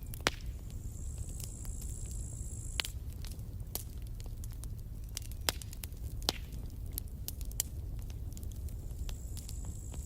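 Campfire burning: irregular sharp crackles and pops of wood over a steady low rumble of the flames. A thin, high, steady hiss comes in twice, for a couple of seconds each time.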